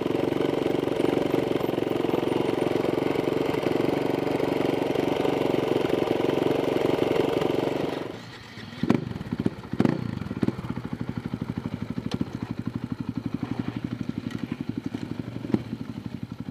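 Off-road motorcycle engine running at steady throttle, then dropping off about eight seconds in. A few short, sharp sounds follow, and then the engine idles with an even, rapid beat, with one more sharp click near the end.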